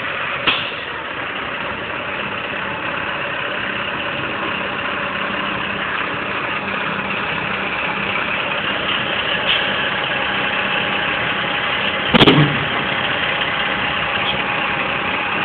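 Diesel engine of a Peterbilt semi-truck running steadily at low idle while it backs up to a lowboy trailer. A brief louder sound falling in pitch cuts in about twelve seconds in.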